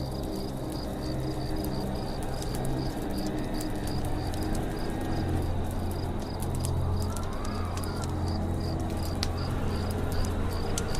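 Campfire crackling with scattered sharp pops, over a forest night ambience of an insect chirping steadily about three times a second and birds calling, with one rising-and-falling call about seven seconds in.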